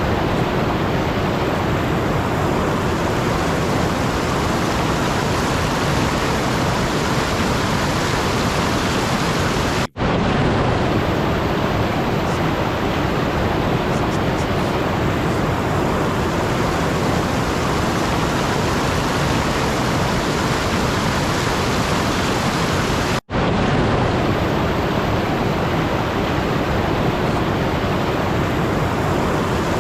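Loud, steady rushing noise with no pitch, like static or rushing water, cut off twice for an instant.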